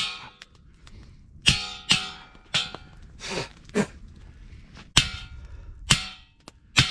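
Metal post of a homemade swivel camp grill being struck to drive it into the ground: about seven sharp, ringing metal clangs at uneven intervals, with a couple of softer scraping knocks in the middle.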